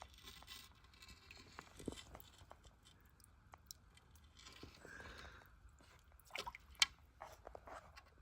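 Faint scattered crunches and clicks of footsteps on creek gravel and leaf litter, with a short cluster of sharper crunches about six and a half seconds in.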